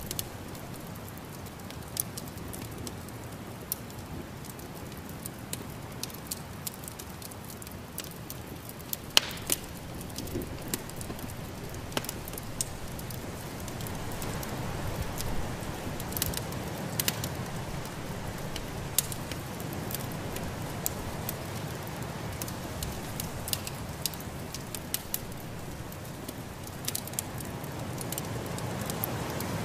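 Wood fire in a fireplace crackling, with irregular sharp pops over a steady rushing background that grows a little louder about halfway through.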